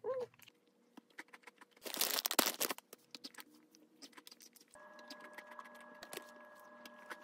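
Close-up crunching and chewing of a crisp cookie packed with nuts, as sharp crackly clicks, with a loud burst of crunching about two seconds in.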